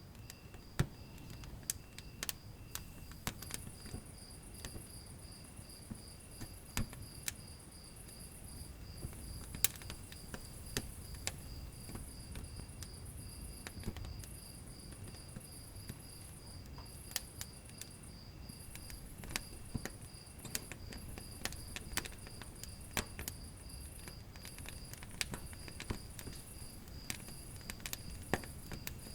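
A wood fire in a fireplace crackling, with irregular sharp pops over a low steady rumble of the flames. Insects chirp in a steady pulsed trill throughout, joined from about four seconds in by a higher, pulsing buzz that comes and goes in phrases.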